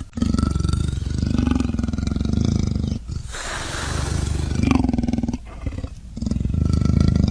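A large wild animal giving a series of low, rumbling roars one after another, with a breathy rush of air between them in the middle.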